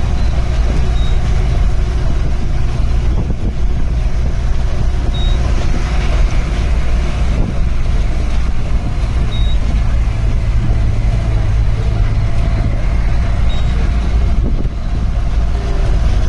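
Safari vehicle's engine running with a steady low rumble. A faint short high note comes about every four seconds.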